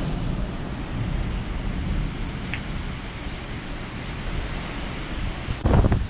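Severe thunderstorm wind gust rushing and buffeting the microphone with a heavy low rumble, swelling into a loud blast near the end. It is a very strong gust, which the person filming thinks could be 80 mph wind.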